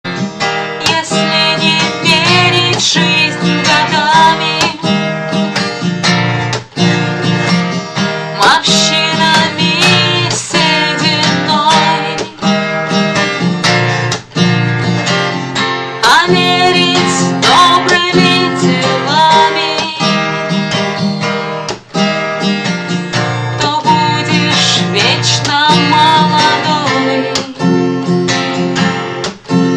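Acoustic guitar strummed in a steady rhythm, with a woman singing a Russian birthday greeting song over it.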